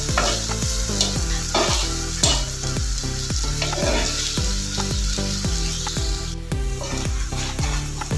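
Flat metal spatula scraping and stirring masala fish on a hot iron tawa, repeated scrapes about every half second over a steady sizzle of frying.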